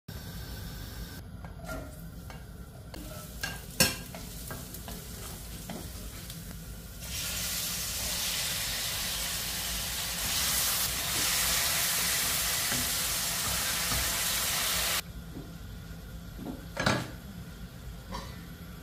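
Raw chicken pieces and garlic sizzling in hot oil in a stainless steel pan, a loud steady sizzle through the middle that swells a little as the chicken goes in and then cuts off suddenly. Before it, quieter cooking sounds with a few clicks and one sharp knock, and another knock near the end.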